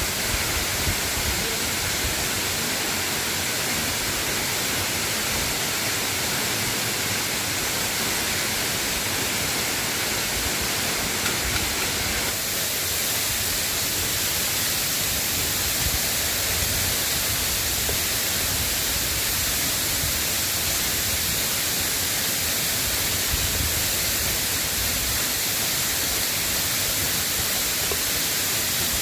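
Steady rain falling, an even hiss with no distinct drops standing out; its tone shifts slightly about twelve seconds in.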